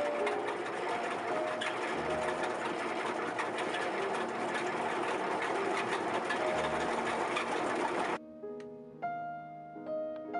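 Honey extractor spinning comb frames: a steady mechanical whir with fast rattling ticks, under soft music. The machine sound cuts off suddenly about eight seconds in, leaving only piano music.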